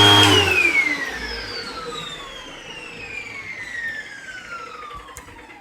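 Hoover WindTunnel Rewind bagless upright vacuum switched off just after the start. Its motor winds down with a whine that falls steadily in pitch and fades over several seconds.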